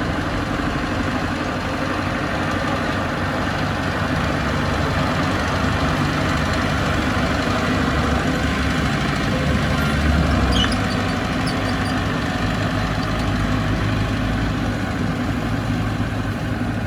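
Diesel engine of heavy earthmoving machinery running steadily, with a deeper swell in power about ten seconds in.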